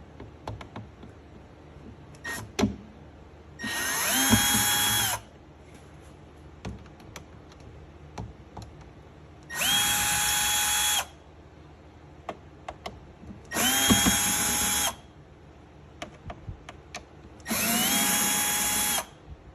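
Electric drill-driver run in four short bursts of about a second and a half each, each one spinning up and then holding a steady whine, backing the screws out of an amplifier's back panel. Light clicks and handling knocks come between the bursts.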